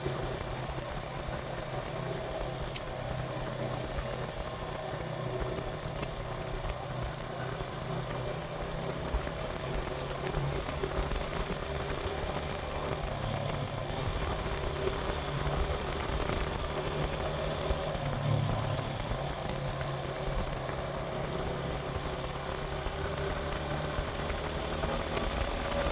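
Suzuki GN125's single-cylinder four-stroke engine running steadily.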